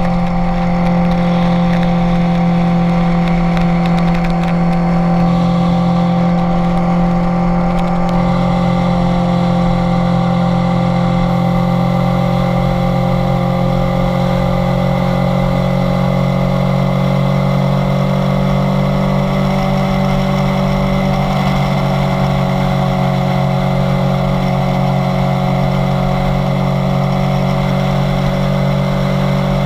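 Kawasaki Z900's inline-four engine running steadily on the move, its note easing slowly down in pitch.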